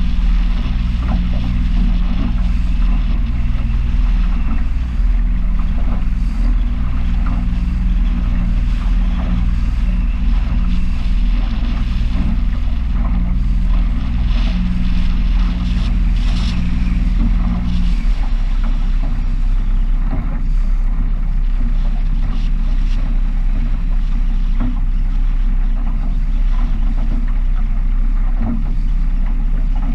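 Small powerboat's engine running steadily under way, with wind on the microphone and water rushing past the hull. The engine note changes abruptly about two-thirds of the way through.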